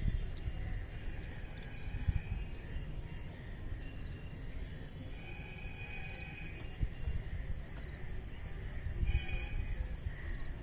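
Insects trilling steadily in a high, rapidly pulsing chorus, over a low rumbling noise on the microphone.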